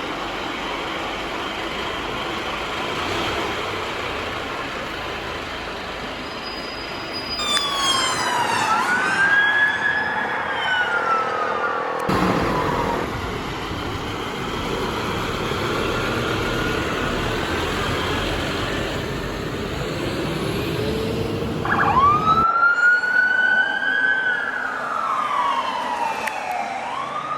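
British emergency vehicles on the road. A Scania fire engine's diesel runs steadily. About seven seconds in, two police cars pass fast with wailing two-tone sirens whose pitch drops as they go by. The fire engine then pulls out with its engine working, and near the end another emergency vehicle passes with its siren sweeping up and down.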